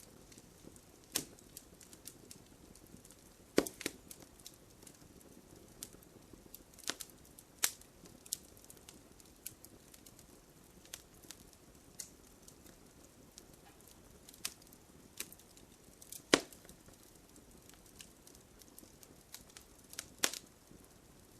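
Wood bonfire crackling, with irregular sharp snaps and pops over a faint low hiss. The loudest pops come about four, sixteen and twenty seconds in.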